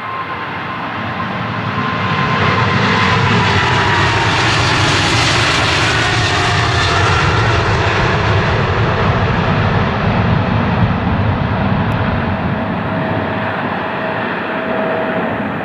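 An airliner's engines passing close by. The noise swells to a peak a few seconds in and then slowly fades, and a whine drops in pitch as the aircraft goes past.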